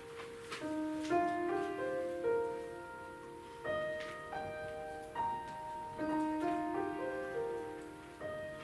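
Piano playing a melodic piece, with struck notes and chords ringing and overlapping.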